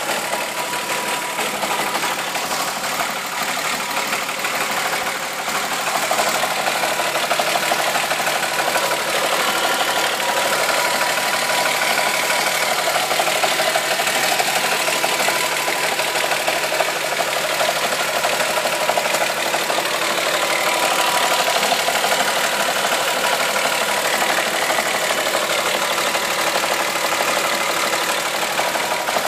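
Volkswagen VR6 six-cylinder engine running steadily at idle with an abnormal mechanical noise, which the owner suspects comes from worn hydraulic lifters, a tired timing-chain tensioner or worn chain guides.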